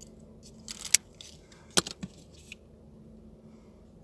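Small craft pieces being handled: a few sharp clicks and short rustles, the loudest about two seconds in.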